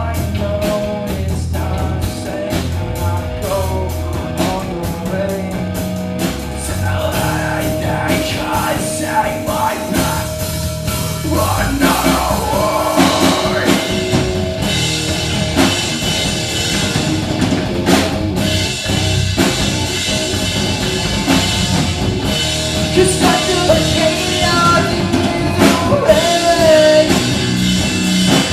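Live rock band playing loudly, with a drum kit, guitars and a singer.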